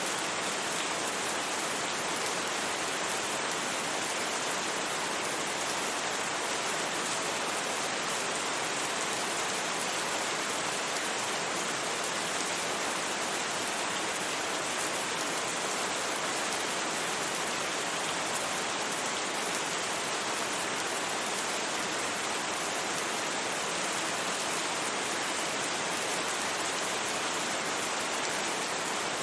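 Steady rain falling, a constant even hiss of drops without thunder.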